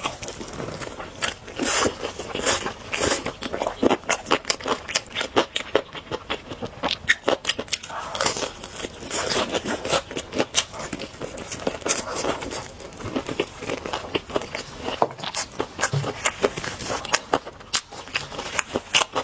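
Close-miked eating of noodles: chewing and slurping, with a dense, irregular run of wet mouth clicks and smacks.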